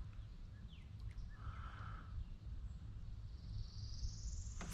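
Wind rumbling on the microphone, with faint bird calls: a short call about a second and a half in, then a high whistle rising over about a second near the end.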